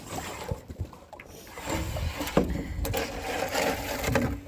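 Heavy wooden dock planks scraping and knocking against each other and the ground as they are dragged and pushed up out of the water, with several sharp knocks.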